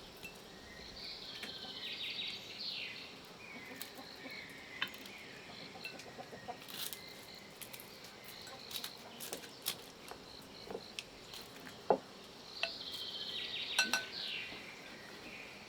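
Scattered light clicks and taps of chopsticks and bowls during a meal. Twice, a bird calls with a burst of high chirps and falling notes lasting about two seconds, once near the start and once near the end.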